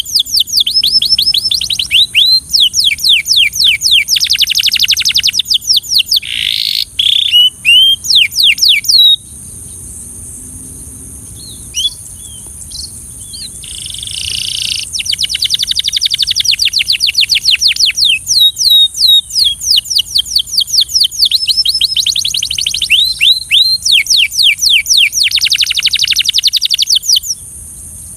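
Belgian canary singing long rolling phrases of rapid repeated notes. The song stops for a few seconds about a third of the way in, with only a few stray notes, then resumes until just before the end. A steady high hiss runs behind the song.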